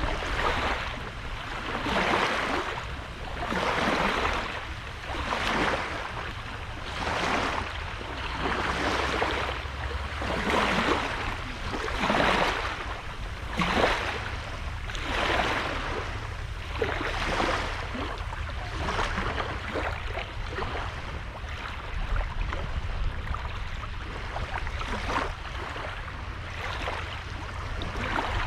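Small sea waves breaking and washing onto a sandy beach, one after another about every one and a half seconds, over a steady low rumble.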